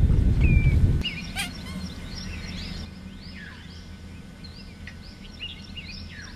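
A low rumbling noise for about the first second cuts off abruptly. After it, many small birds chirp and twitter at once in a busy, overlapping chorus of short rising and falling notes.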